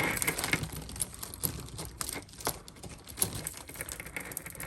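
A beaded faux pearl necklace being picked up and handled: a scatter of small, irregular clicks as the beads knock together, with light rustling.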